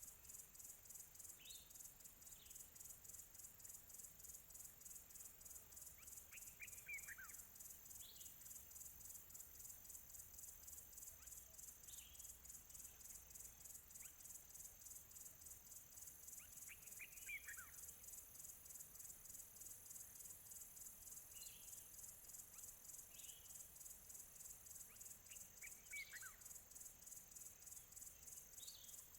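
Crickets chirping in a steady, fast pulse, faint, with a bird calling now and then: a short downward-sweeping phrase about every nine or ten seconds and a few brief single notes between.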